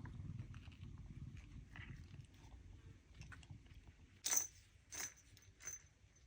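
A cat crunching dry food: three sharp crunches about two-thirds of a second apart in the second half, after a low rumble.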